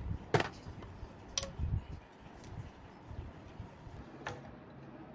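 Three sharp clicks spread over a few seconds, with a soft low knock between the first two, from tools or parts being handled during work on a generator.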